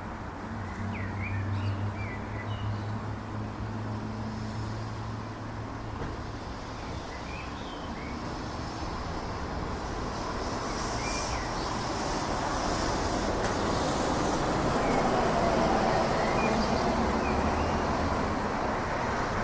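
Distant rumble of a Boeing 737-600 airliner's jet engines passing high overhead, swelling slowly to its loudest near the end. Small birds chirp now and then.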